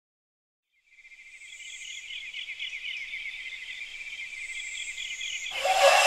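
High, rapidly pulsing chirring of insects, fading in after about a second and holding steady. A louder, lower sound joins about half a second before the end.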